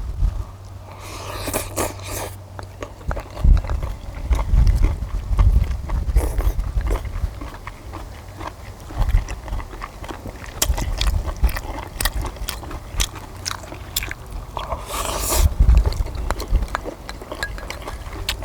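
Close-up eating sounds: people chewing and biting stir-fried small octopus with kimchi, with many short sharp clicks and smacks.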